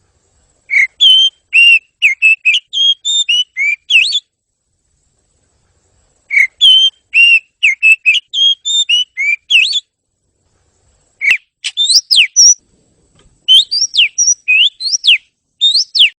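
Oriental magpie-robin (kacer) song: four phrases of rapid, clear whistled notes that slide up and down, separated by short pauses.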